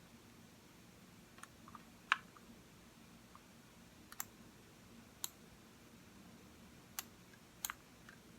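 Computer mouse clicking: a handful of sharp single and double clicks at irregular intervals, the loudest about two seconds in, over faint room hum.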